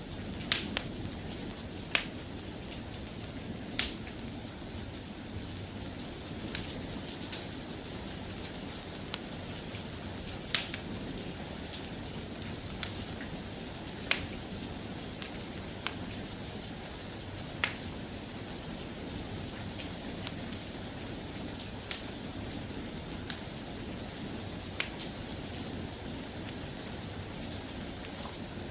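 Steady, soft rain, with short sharp ticks coming at irregular intervals about every one to two seconds.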